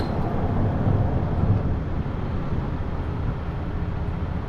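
Tow truck's engine idling steadily, a low, even rumble.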